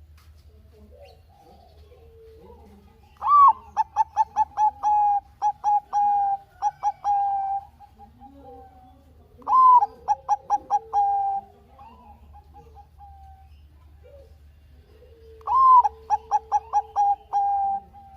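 Bangkok-bred zebra dove (perkutut) singing. There are three song phrases, each opening with a rising-then-falling note and running into a quick string of short, clipped coos, about five a second. Fainter coos sound between the phrases.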